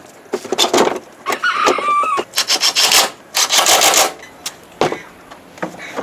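Abrasive scraping or rubbing strokes, several in a row, each about half a second long, with scattered clicks between them and a short squeak a little under two seconds in.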